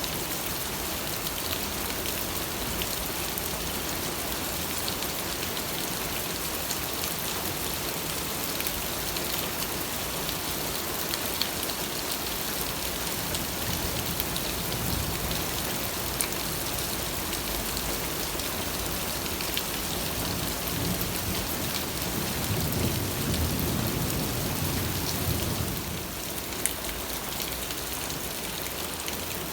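Steady rain falling, with scattered drop ticks. About three quarters of the way through, a low rumble of thunder swells for a few seconds and then fades.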